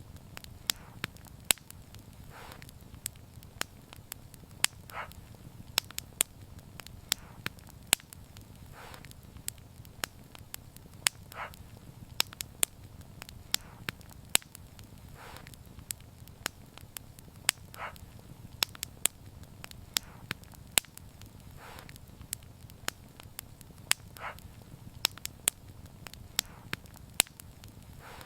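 Wood fire crackling, with frequent sharp irregular pops over a steady low rumble of flame. A soft short hiss comes every couple of seconds.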